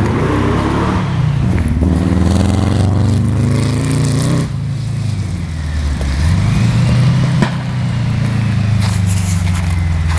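VW sand rail's high-performance 1830 cc air-cooled flat-four with dual Weber carburettors running hard as the buggy drives, its note rising and falling with the throttle. It eases off about four and a half seconds in and picks up again a couple of seconds later.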